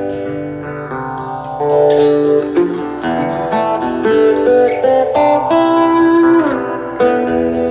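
Guitar music: plucked guitar notes, some sliding in pitch, over a steady low bass line.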